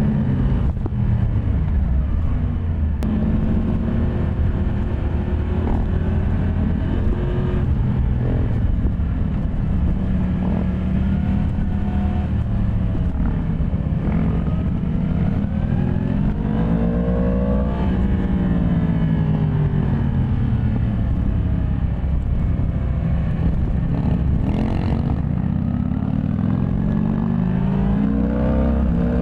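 Yamaha MT-10 SP's crossplane inline-four engine running on the road. Its pitch rises and falls again and again as the rider accelerates and eases off, with several quick drops in pitch.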